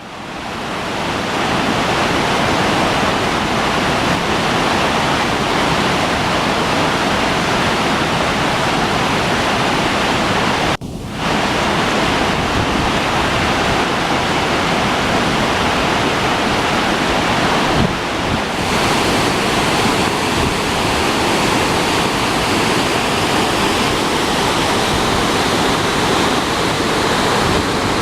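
Swollen river in flood: a loud, steady rush of fast-flowing floodwater from typhoon rain. It fades in at the start and drops out briefly about eleven seconds in.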